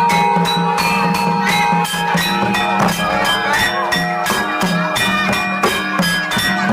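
Jathilan dance music from a Javanese gamelan-style ensemble: drums keep a quick, steady beat under the held, ringing tones of metal percussion.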